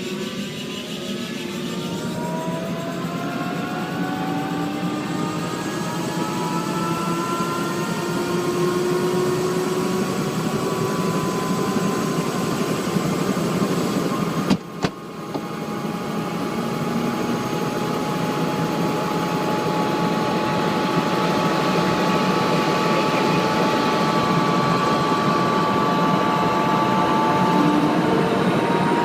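Helicopter turbine engine and rotor spinning up, its whine rising slowly in pitch for several seconds, then running steadily. A brief break in the sound about halfway through.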